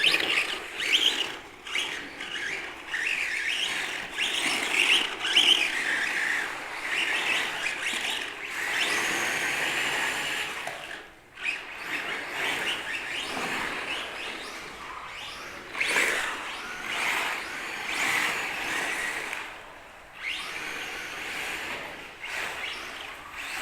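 Electric RC trucks' motors whining and their tyres scrubbing and squealing on a dusty concrete floor as they drift, the sound swelling and fading with the throttle.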